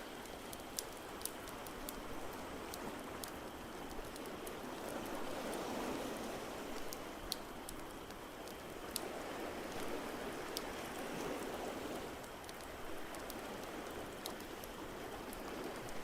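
Ocean waves washing ashore in slow swells, with a wood fire crackling in irregular sharp pops over them.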